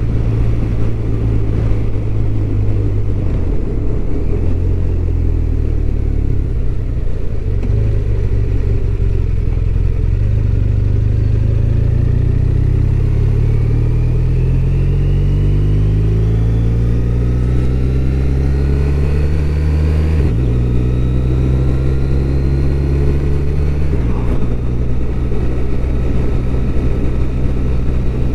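BMW R1200RT's flat-twin engine running under way, the engine note climbing steadily as the bike accelerates through a gear from a little before halfway, then dropping sharply at two upshifts, about two-thirds in and again shortly after.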